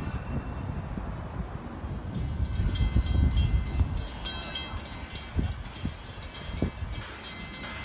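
Low rumble of a commuter train, swelling for a couple of seconds, with a rapid run of short high metallic dings starting about two seconds in.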